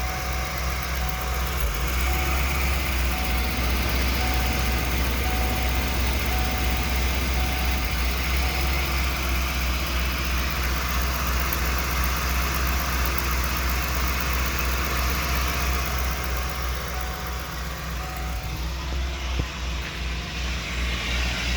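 Ford 351 (5.8-litre) V8 of a 1994 E350 Club Wagon idling slightly unevenly: a misfire in the idle that shows most while the engine is cold.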